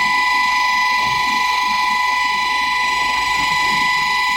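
Stainless steel universal disc grinder running at high speed, a steady high whine over a rushing noise.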